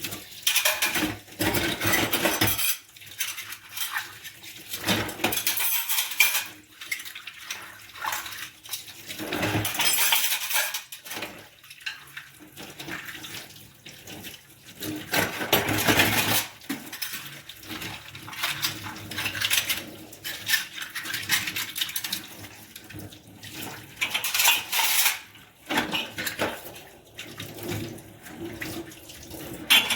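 Dishes being washed by hand at a sink: plates and cutlery clinking and knocking together, with several short bursts of running or splashing water.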